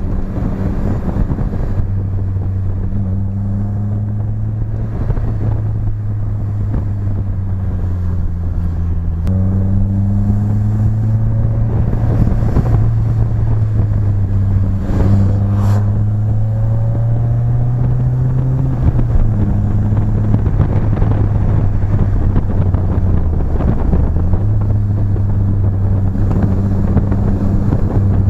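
BMW E30 engine and new exhaust running under way, with a steady low note. The pitch steps up about nine seconds in, climbs slowly, drops sharply about nineteen seconds in, and dips briefly near the end.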